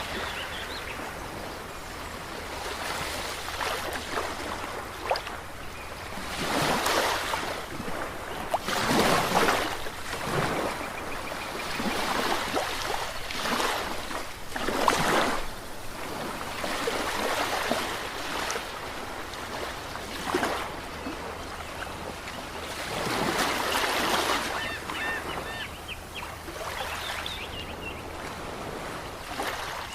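Ocean waves breaking and washing in, swelling and falling back in irregular surges every few seconds, with a steady low rumble underneath.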